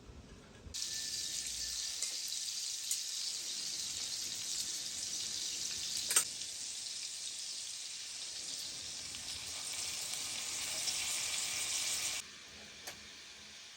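Food sizzling in a hot pan, a steady hiss that starts suddenly just under a second in and cuts off shortly before the end, with one sharp click about six seconds in.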